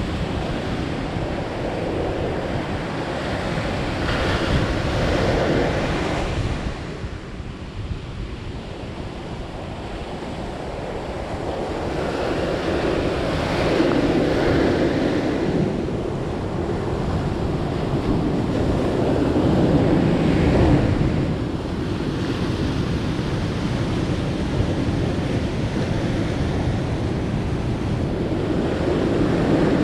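Ocean surf breaking and washing up the shore: a steady rush that swells and ebbs as each wave comes in, with a lull early on and the strongest surge about two-thirds of the way through.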